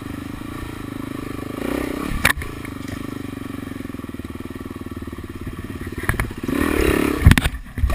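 Dirt bike engine running steadily with an even pulse. A sharp knock sounds about two seconds in, and several loud clattering knocks come near the end.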